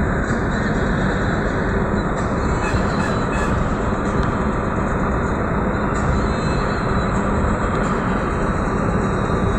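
Car driving along: a steady rush of road and wind noise with a low rumble.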